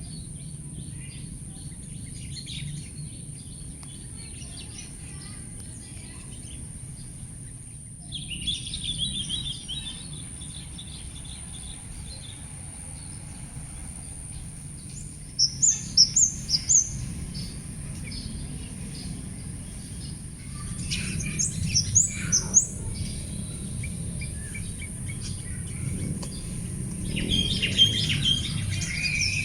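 Wild birds chirping and twittering in separate bursts: a twittering run about eight seconds in, a string of loud high chirps around the middle, more chirps a little after twenty seconds, and twittering again near the end. Underneath is a steady low hum and a constant high-pitched hiss.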